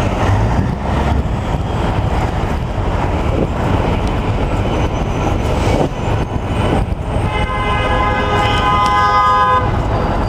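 Street traffic noise with a steady heavy engine rumble. About seven seconds in, a vehicle horn sounds, held for about two and a half seconds.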